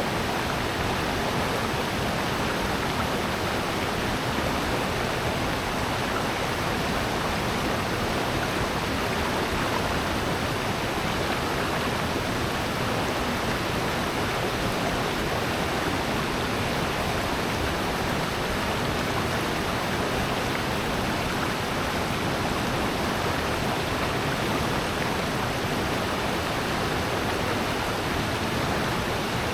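Mountain stream and waterfall in a rocky gorge: rushing water, a steady, even hiss.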